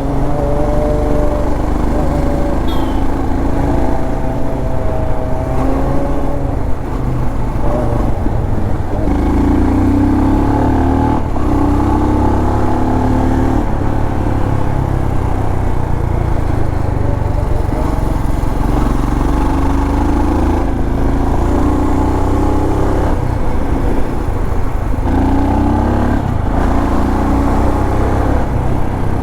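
Royal Enfield Scram 440's single-cylinder engine running on the move, its pitch rising and falling again and again as the rider works the throttle and shifts gears, with wind noise underneath.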